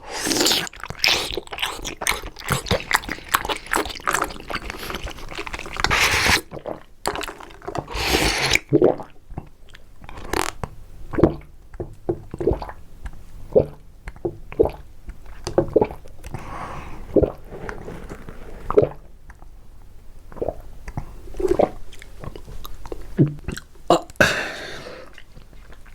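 Close-miked eating of a boba dessert: chewing and crunching, densest and loudest in the first six seconds, then sparser separate bites and mouth clicks.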